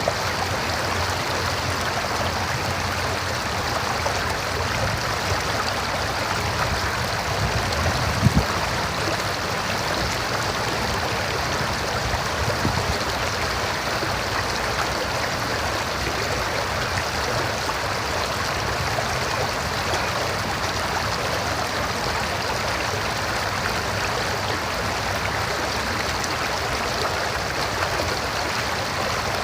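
River water running and splashing over rocks, a steady rushing flow with a brief low thump about 8 seconds in.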